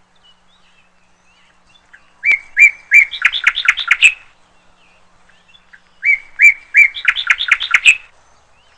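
A songbird singing the same short phrase twice: a few even notes followed by a quick run of sharper, rising notes.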